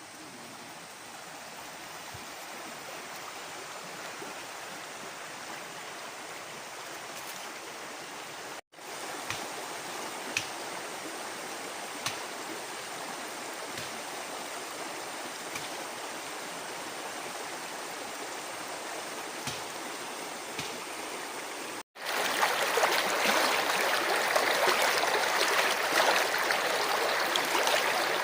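Mountain stream water rushing steadily over stones. The flow drops out briefly twice at edits and comes back louder after the second break.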